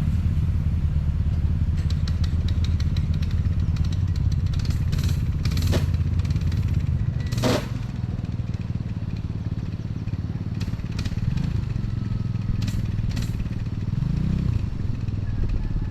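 Small off-road motorcycle-type engine running steadily at low revs, with a couple of sharp clicks about midway.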